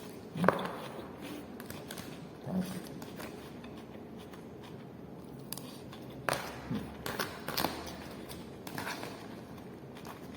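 A few light taps and clinks of cutlery on a plate while eating, scattered: one sharper click about half a second in and a handful more between about six and nine seconds in.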